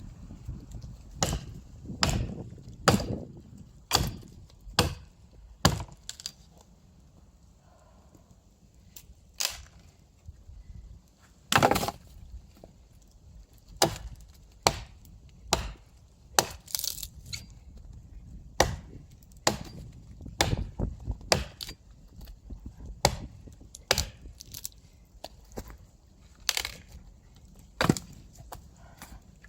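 Axe chopping firewood: a long series of sharp wooden chops, roughly one every second or two, some in quick clusters, with a short lull a few seconds in.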